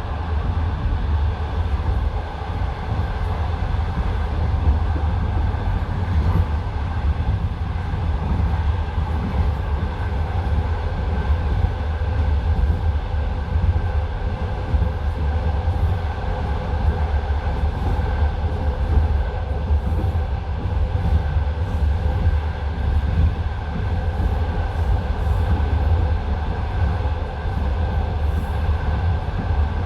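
Passenger train running along the line, heard from inside the coach: a steady, loud rumble of the wheels on the rails, with no distinct clatter of joints standing out.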